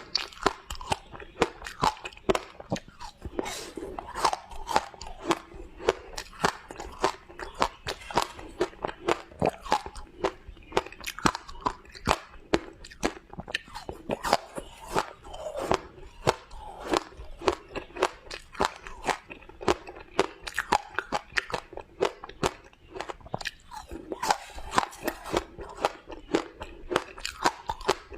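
Close-up crunching and chewing of shaved ice in the mouth: continuous crisp crunches, several a second, with brief pauses between bites.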